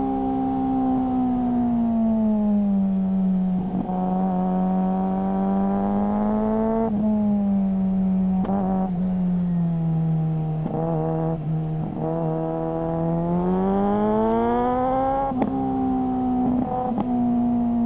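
Suzuki GSR600's inline-four engine through a GPR Ghost aftermarket exhaust, running under way at fairly steady revs. The note sinks slowly over the first few seconds, sinks further in the middle, then climbs again near the end, with a few brief sharp clicks along the way.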